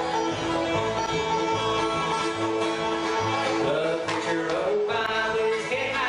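Acoustic bluegrass band playing live: banjo picking over guitar, with a double bass keeping a steady pulsing beat underneath.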